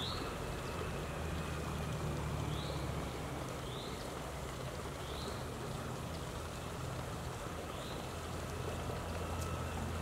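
Short, high bird chips, about five of them a second or more apart, over a steady low rumble.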